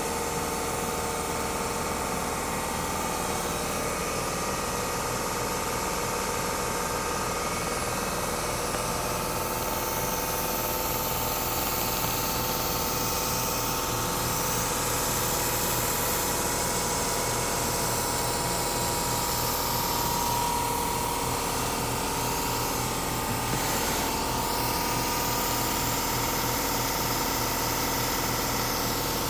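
Large CNC laser cutter running as it cuts thick cast acrylic: a steady machine hum and hiss with several steady tones, the hiss growing a little stronger about halfway through.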